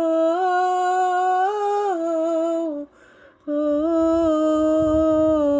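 Female mezzo-soprano voice singing two long held 'oh' notes, with a short break for breath about three seconds in. The first note steps up in pitch and then falls back.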